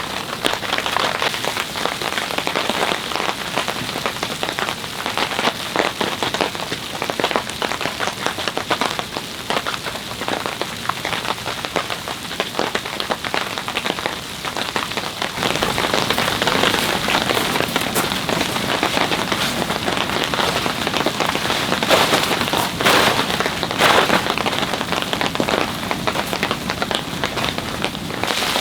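Heavy rain falling, a dense patter of drops striking a surface close by, growing louder about halfway through.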